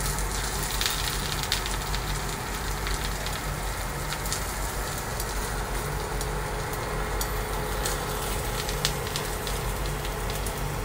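Grated potato rösti frying in clarified butter in a nonstick pan: a steady sizzle with scattered crackles and pops.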